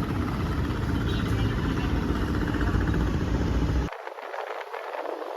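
Motorcycle engine running with heavy low wind rumble while riding. The rumble cuts off suddenly about four seconds in, leaving a fainter hiss.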